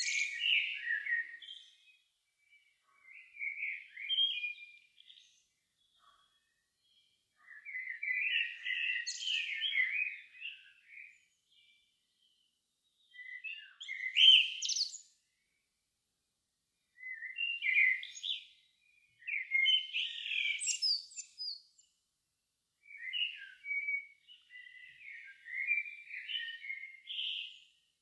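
A songbird singing its evening song in short, varied warbling phrases of a second or two, with pauses between them, about eight phrases in all.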